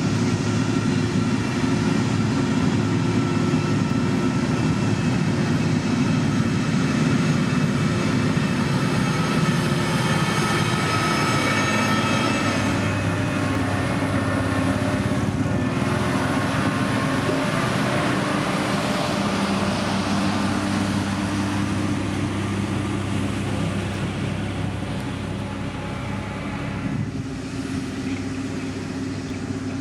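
Motor grader's diesel engine running steadily while working, a continuous heavy engine drone that gradually gets quieter over the second half.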